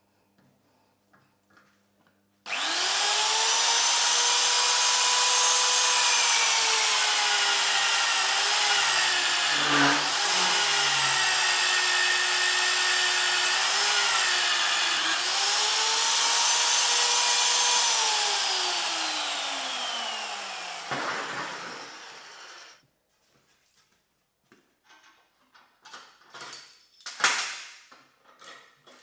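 Electric power tool working metal: the motor spins up suddenly to a steady high whine, its pitch dropping briefly twice as it bites under load, then it is switched off and the whine falls away over a few seconds. Light metallic clinks follow near the end.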